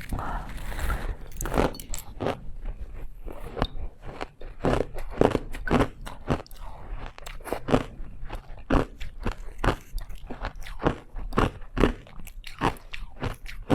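A person biting and chewing ice close to the microphone: quick, irregular crunches several times a second as the ice cracks between the teeth.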